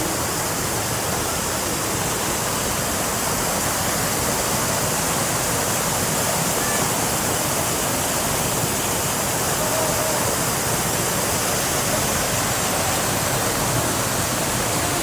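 Waterfall crashing onto rocks and a pool, a steady, loud, unbroken rush of water.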